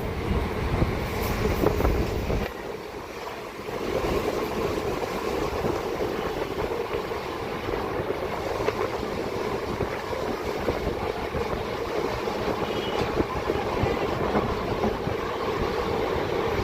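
Passenger train running at speed: steady rumble of wheels on the rails with a light clatter. Wind buffets the microphone for the first couple of seconds.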